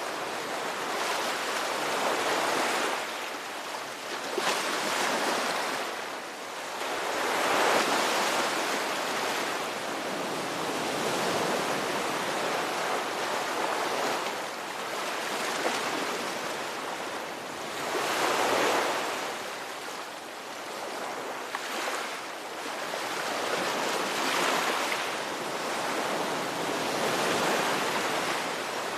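Ocean waves breaking and washing on a shore, a steady surf hiss that swells and falls back every few seconds.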